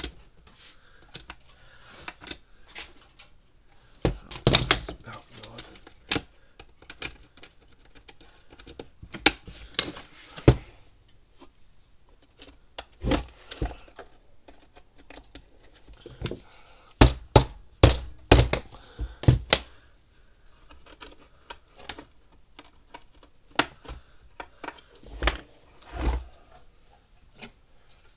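Irregular clicks, taps and knocks of hand tools on the hard plastic case and screws of a solar electric fence charger being taken apart, with busier flurries about four seconds in and again around seventeen to nineteen seconds.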